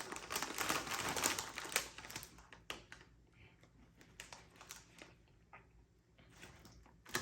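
Crunching of jalapeño cheddar Doritos tortilla chips being chewed close to the microphone. There is dense crackling for about the first two seconds, then scattered crunches.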